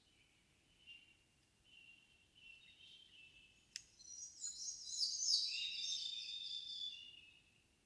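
Songbirds singing in a quiet evening forest: faint thin notes at first, then about four seconds in a louder, nearer bird sings a rich, fast song of many high notes lasting about three seconds. A single sharp click sounds just before the loud song.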